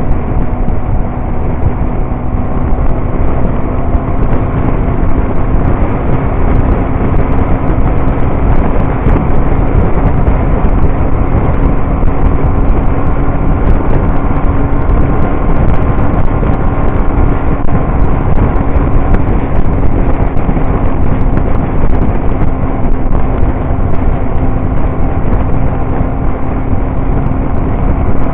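Motorcycle engine running steadily at a constant cruising speed, a steady drone over heavy, even road and wind noise.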